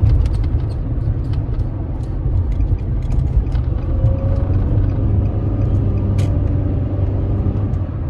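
Steady low road and engine rumble of a car heard from inside the cabin while driving, with a few faint light clicks.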